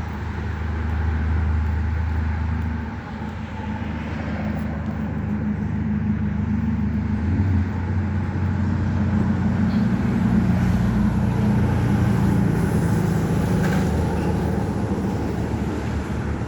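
A motor vehicle's engine running with a steady low hum, its pitch shifting about halfway through, over a wash of road noise.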